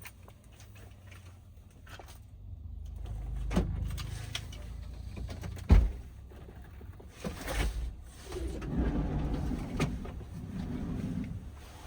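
Low vehicle rumble with a single sharp thump a little before six seconds in.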